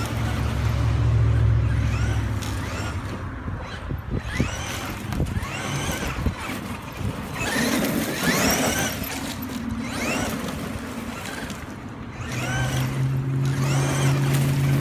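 Brushless electric motor of a Traxxas X-Maxx RC monster truck whining up and falling back in pitch again and again as it accelerates and slows, over a haze of running noise. A steady low hum sounds for about the first two seconds and again near the end.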